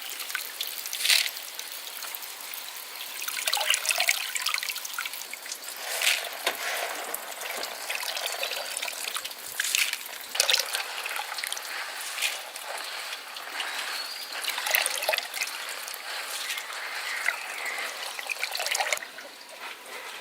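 Water trickling and splashing in irregular spurts as liquid is poured; it stops shortly before the end.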